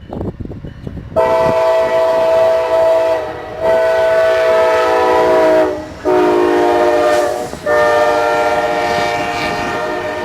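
Locomotive multi-chime horn sounding the grade-crossing signal: two long blasts, a short one, then a long one that is still sounding at the end. Each blast is a loud chord of several steady tones.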